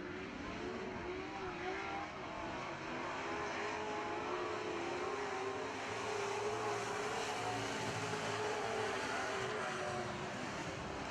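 A pack of dirt-track Super Truck engines running together at racing speed, their pitches wavering up and down as they rev through the turns. The sound gets louder a couple of seconds in.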